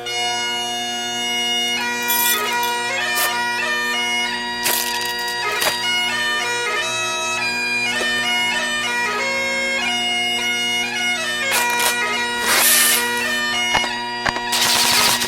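Bagpipe music: a steady drone under a chanter melody with quick grace notes, cut through by a few short bursts of hiss.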